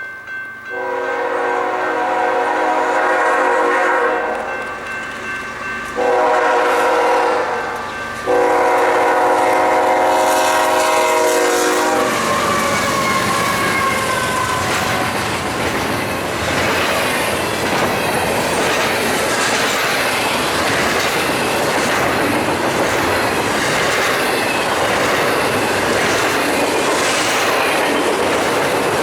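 BNSF freight locomotive's multi-tone air horn sounding three blasts, the last ending about twelve seconds in. Then the double-stack train passes close by, rumbling, with steady wheel clatter over the rail joints.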